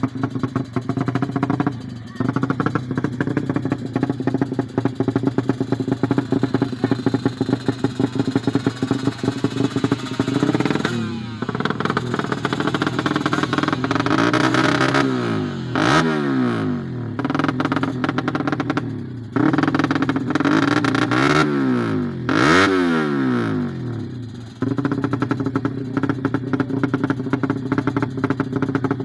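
Small motorcycle engine idling with a rapid pulsing beat, then revved up and let fall back several times in the middle, and settling back to idle near the end.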